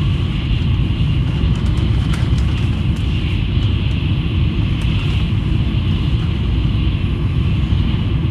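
Shinkansen high-speed train running at speed: a steady low rumble with a hiss above it and a few faint clicks.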